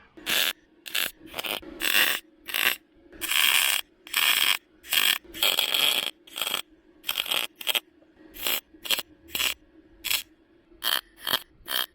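MIG welder laying a series of short tack welds on car body sheet metal: bursts of crackle lasting a fraction of a second to about a second, with short pauses between them, over a faint steady hum.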